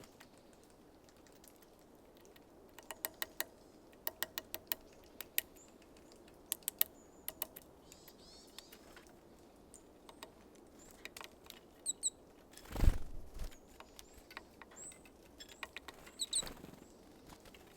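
Small birds pecking at sunflower seeds on a feeder: sharp tapping clicks in quick runs of three to six, with a few short high chirps. A louder thump comes about 13 seconds in.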